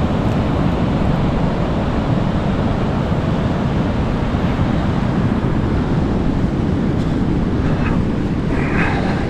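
Steady wind and surf noise, the wind buffeting the microphone with a low rumble.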